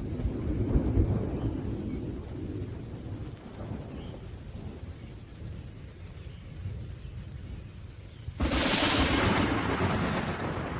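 Thunderstorm with rain: a low rumble of thunder is loudest in the first two seconds and then dies away. About eight seconds in, a sudden sharp crack of thunder breaks in, much louder, and rumbles on.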